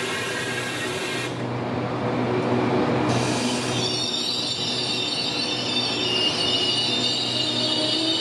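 Passenger train's wheels and brakes squealing with several steady high-pitched tones over a rolling rumble and a low steady hum, growing louder about halfway through, as the train slows to a stop at the platform.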